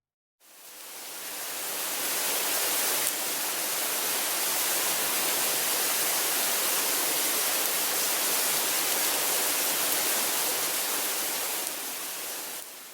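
Steady rushing noise, mostly high-pitched hiss with little low end. It fades in about half a second in, holds even, and fades out near the end.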